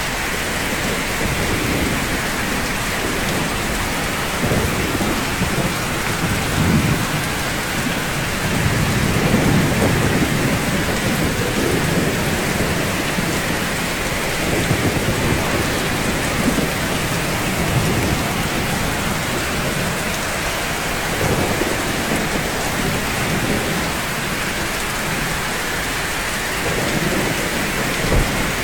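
Steady rain falling on rooftops, an even hiss with low rumbling swells every few seconds.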